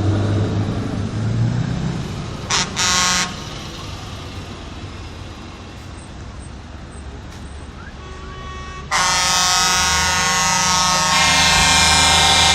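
Truck engines rumbling low, then two short truck air-horn blasts, the second longer, about two and a half seconds in. About nine seconds in a loud, sustained multi-tone sound starts suddenly and runs on.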